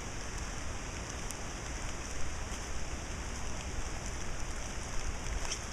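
Steady rain falling, with a few scattered drops ticking close by.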